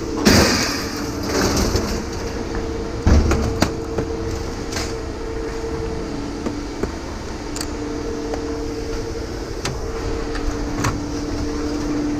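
Steady machinery drone holding two tones that shift in pitch now and then, with scattered sharp metallic clanks and knocks.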